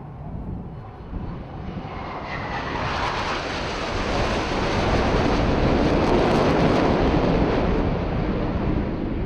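Aircraft flying past a display line: its engine noise swells over a few seconds, is loudest past the middle, then fades.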